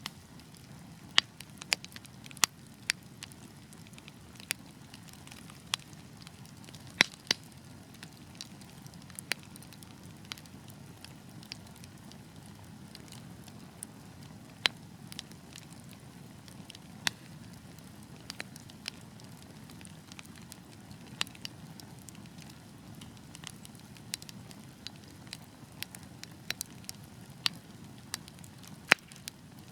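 Wood fire burning with a steady low rush of flames and irregular sharp crackles and pops from the burning logs, a couple of them louder, about seven seconds in and near the end.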